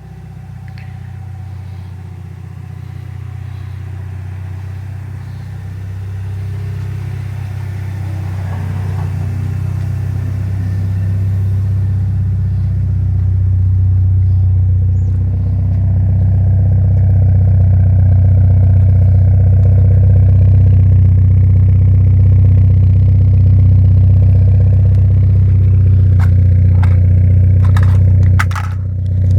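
1999 Mitsubishi Eclipse GS running through a large-bore 'fart can' aftermarket muffler with a steady, deep exhaust drone on a cold engine; it grows louder over the first half, dips briefly near the end, and a few sharp clicks sound in the last seconds.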